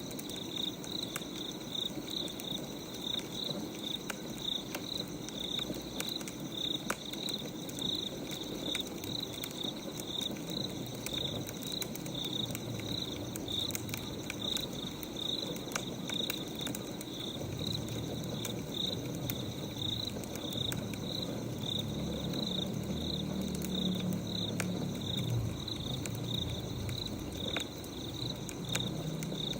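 Wood fire crackling with sharp scattered pops, over crickets chirping in a steady, even rhythm of about two high chirps a second. A low rumbling noise swells in the second half.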